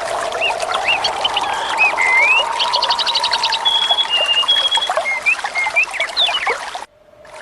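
Songbirds chirping and trilling over steadily running water, with a quick run of repeated notes and a few held whistles in the middle. The sound cuts out abruptly for about half a second near the end.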